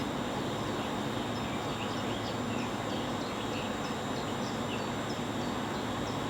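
Steady low hum of an EP2D electric multiple unit, with a small bird chirping repeatedly over it for a few seconds in the middle.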